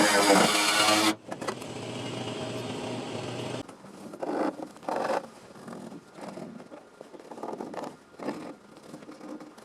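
A small motor runs loudly with a steady pitch and drops off about a second in. A quieter steady hum follows and stops a few seconds in, then short scattered scraping and rubbing noises.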